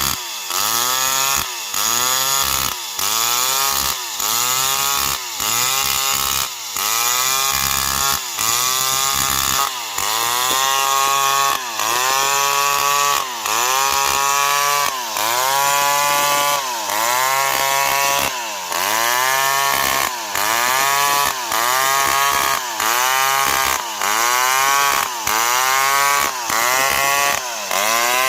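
Old Stihl 070 two-stroke chainsaw cutting into a tree. Its engine note dips and recovers about once a second as the chain bites.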